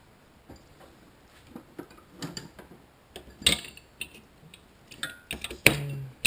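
Metal hand tools clicking and clinking as they are rummaged through, with a couple of sharper clanks about three and a half and five and a half seconds in, the second ringing briefly.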